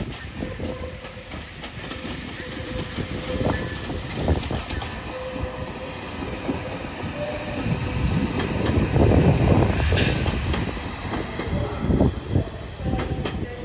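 Transport for Wales Class 197 diesel multiple unit passing, its wheels clacking over rail joints and points, building to loudest about nine seconds in.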